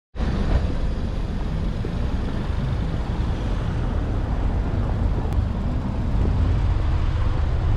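Ford Focus RS Mk3's turbocharged 2.3-litre four-cylinder engine idling with a steady low rumble.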